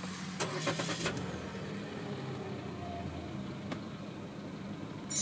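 Chery Tiggo 8's engine starting: a short burst of cranking in the first second, then a steady idle heard from inside the cabin.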